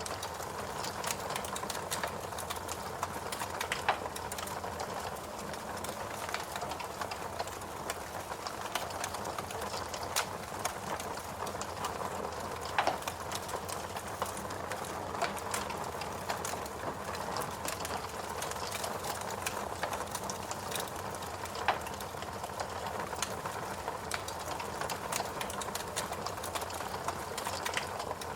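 Fireplace crackling, with scattered sharp pops over a steady background hiss. Stronger pops come now and then, about every few seconds.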